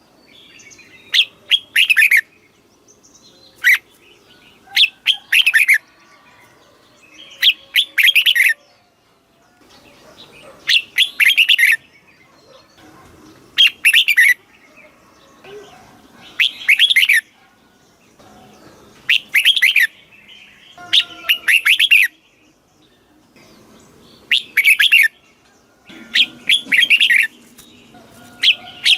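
Red-whiskered bulbul singing short, loud warbled phrases, repeated about every two to three seconds with brief pauses between.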